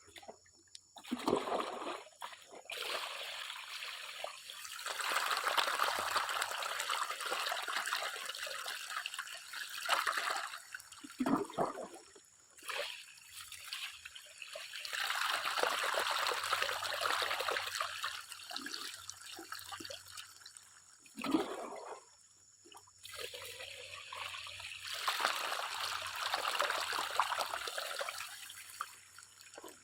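Water sloshing and pouring off a gold pan in repeated swells of a few seconds, with short pauses between them and a couple of short knocks.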